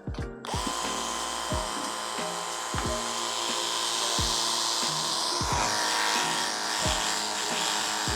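Portable water jet gun (a small pressure washer) starting about half a second in, then running steadily: a motor whine under the hiss of the water spray. Background music with a regular beat plays underneath.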